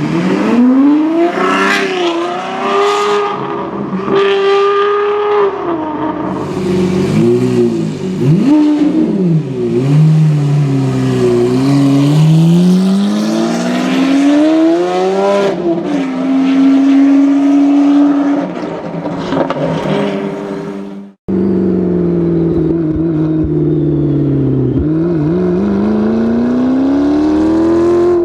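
Novitec-tuned supercar engine running hard through its sports exhaust. The pitch climbs under acceleration, drops at each gear change, and climbs again. About three-quarters of the way through the sound cuts off sharply and switches to another engine note held at speed, which dips and rises again.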